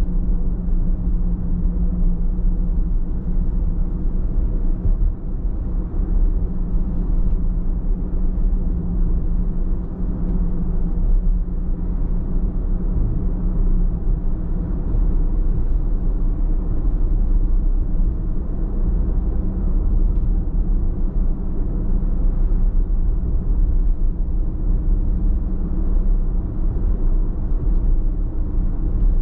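Car driving at a steady pace: continuous low road and engine rumble with a steady hum, unchanging throughout.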